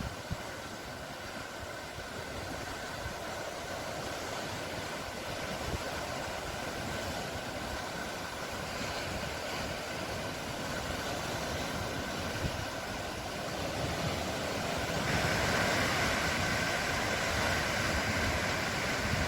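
Sea waves washing ashore: a steady rush of surf that swells louder about three-quarters of the way through.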